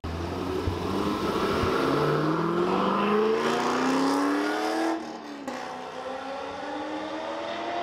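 A car engine accelerating hard, its pitch climbing steadily. About five seconds in the note drops briefly, like a gear change, then the engine pulls on with a slowly rising note.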